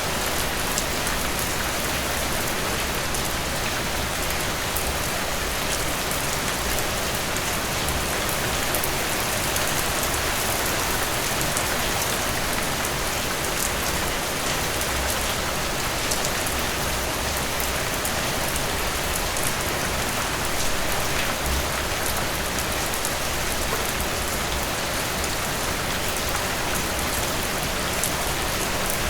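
Steady rain falling on a surface, an even hiss of continuous rainfall with many small drop ticks through it.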